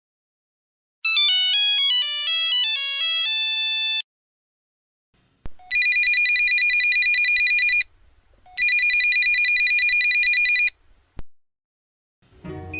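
Two phone ringtones in turn. The first is a short melody of stepping notes lasting about three seconds. After a click, a phone rings in two bursts of about two seconds each, a rapidly pulsing ring, and a click follows the second burst.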